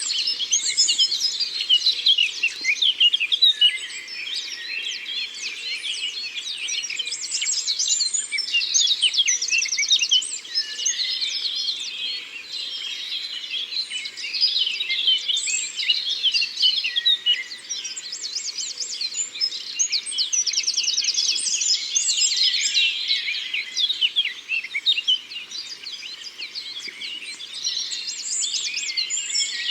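Forest songbirds singing at once in a dense, unbroken chorus of chirps and whistles, with a fast trill of rapid repeated notes returning every several seconds.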